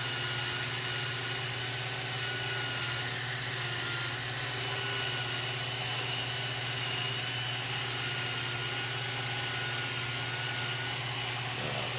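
Electric drill running steadily at high speed with an attachment scrubbing paint off a steel minibike frame, a high steady whine over a harsh hiss.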